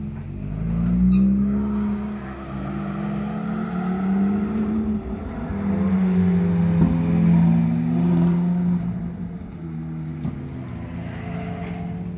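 Ferrari 458 Italia's V8 engine revving and easing off as the car laps the track and passes close by. The revs swell twice, about a second in and again from about six to eight seconds.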